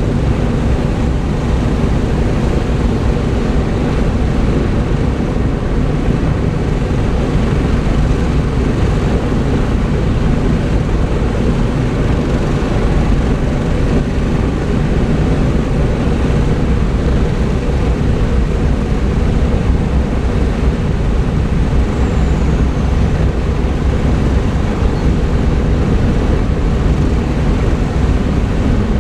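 Piston radial engines of a Lockheed L-1049 Super Constellation running steadily, a loud, deep, unbroken drone.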